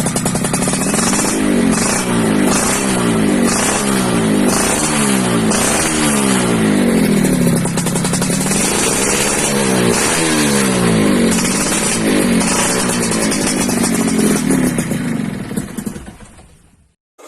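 Yamaha F1ZR two-stroke single-cylinder engine revved over and over through an RTX racing exhaust, the pitch climbing and dropping about once a second. It fades out near the end.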